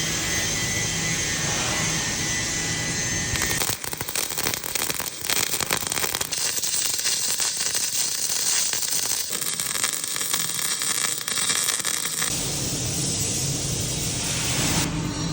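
MAG welding arc crackling and sputtering for about eight seconds, starting about four seconds in, on thick steel plate. It is set between stretches of steady hissing noise with a low hum at the start and near the end.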